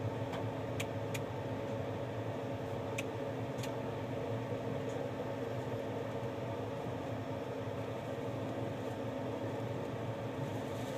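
Steady hum and rumble inside a slowly moving passenger train carriage, with a few short clicks in the first four seconds.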